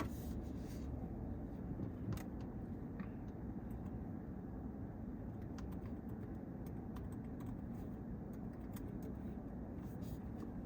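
Steady low rumble of road traffic, with scattered light clicks and ticks throughout.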